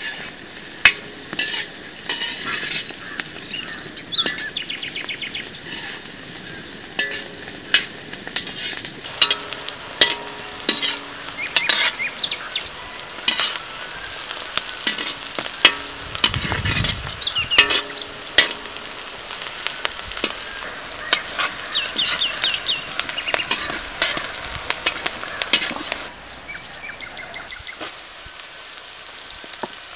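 Sliced onions and chillies frying in oil in a large iron kadai, sizzling steadily, with a metal skimmer ladle scraping and clinking against the pan as they are stirred.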